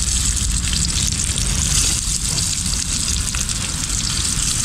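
Fish frying in hot oil, a steady sizzle, over a constant low rumble.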